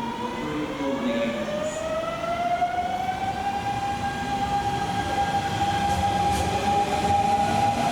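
Kintetsu electric train's inverter and traction motors whining as it pulls away. The pitch rises in several tones at once over the first few seconds, then holds steady over the rumble of the wheels on the rails.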